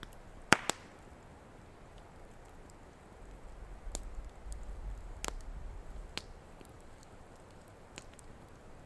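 Wood campfire crackling: irregular sharp pops and snaps over a soft steady hiss, the loudest pops a double snap about half a second in, with a low rumble under the fire in the middle.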